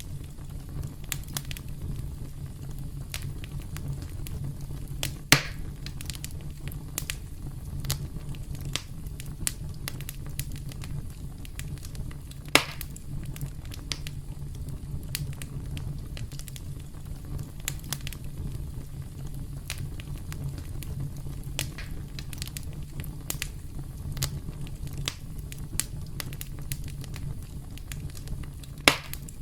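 Wood fire burning: a steady low rumble of flames under constant small crackles, with three louder pops from the burning wood, about five seconds in, about twelve seconds in and near the end.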